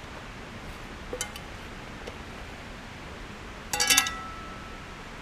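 Aluminium pots and lids of a Trangia cook kit clinking against each other: a couple of light clicks, then a brief clatter about four seconds in that leaves a short ringing tone, over a steady hiss.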